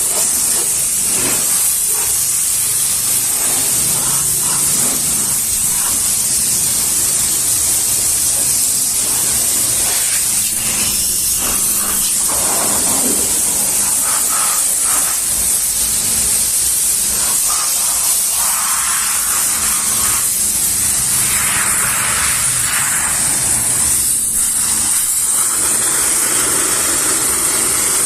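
High-pressure washer spraying water in a steady, loud hiss, with a faint low hum underneath.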